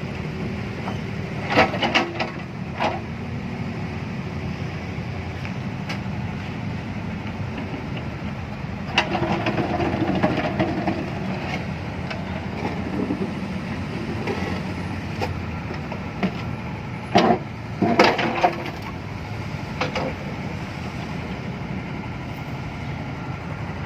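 A large engine running steadily, with loud clanks and knocks in short clusters at intervals. This fits machinery digging out thick, packed mud.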